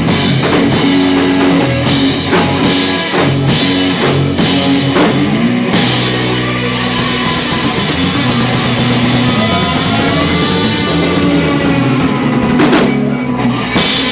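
Live rock band with drum kit, bass and electric guitar playing loud. After about six seconds the steady drumbeat gives way to a long held chord with wavering guitar lines, and there are two cymbal crashes near the end.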